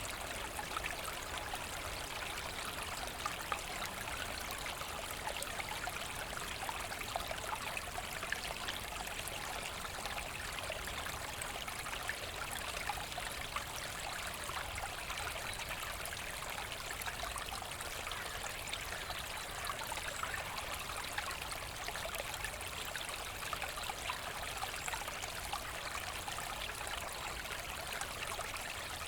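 A small forest brook running steadily, water trickling and babbling over stones.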